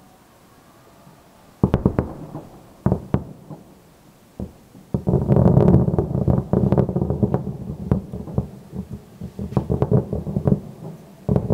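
Distant fireworks: a few separate sharp bangs with rumbling tails, then a dense run of overlapping bangs for several seconds, with two more bangs near the end.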